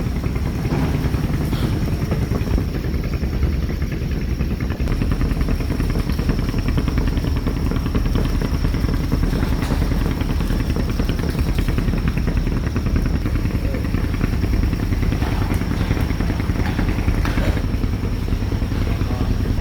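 An engine running steadily at low speed, a deep even hum, with a thin steady high whine over it.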